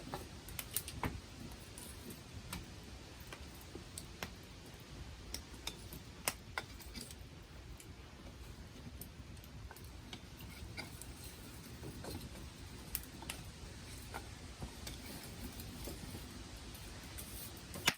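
Wood campfire crackling: irregular sharp pops and snaps of burning wood over a steady low hiss of the flames, with a loud snap just before the end.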